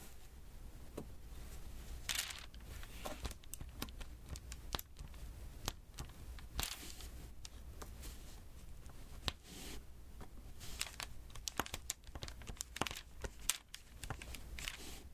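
Diamond painting worked by hand: small resin drills tapped one by one onto the sticky canvas, a quick run of light clicks, broken a few times by brief crackling, sticky peeling rustles.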